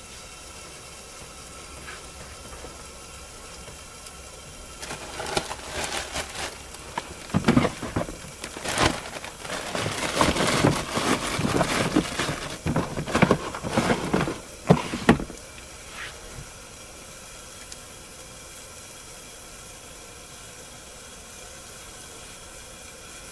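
Steady hiss of food frying under the lid of a steel pot on a camp stove. In the middle, about ten seconds of irregular knocks and rustling from close handling.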